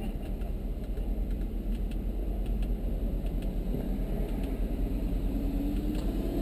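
Audi S7's twin-turbo V8 idling, a low steady rumble heard inside the cabin, with a few faint clicks.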